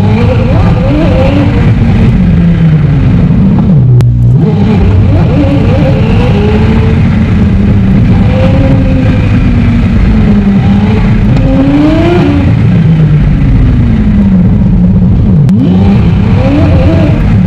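McLaren 765LT's twin-turbo V8 pulling hard on the highway, its note climbing and falling again and again, with a short break about four seconds in and another near the end. The clip is sped up three times with the pitch held normal, so the revs rise and fall quickly.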